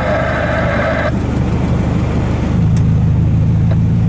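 Steady low engine rumble, joined about two and a half seconds in by a deeper steady hum. A higher buzzing tone cuts off sharply about a second in.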